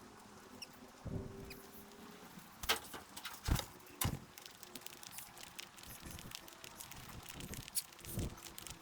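Birds feeding at a feeder: scattered light pecking taps and scrabbling clicks, with a few louder knocks about three to four seconds in and another near the end.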